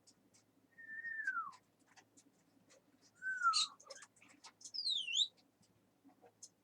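A pet parrot whistling: three falling whistles, the last one higher-pitched, among short clicks and chirps.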